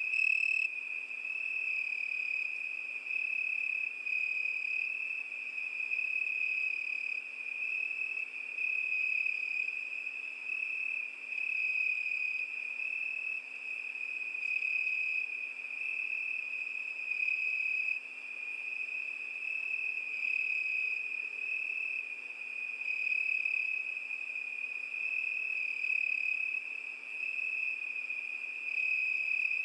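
A cricket singing: one continuous high-pitched trill that swells slightly about once a second, over a faint hiss.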